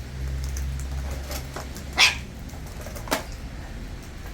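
Two short, sharp animal calls about a second apart, the first the louder, over a low hum that fades out after about two seconds.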